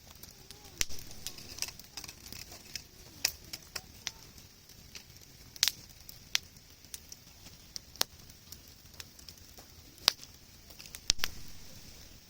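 Wood campfire crackling, with irregular sharp pops of burning wood, the loudest two near the end.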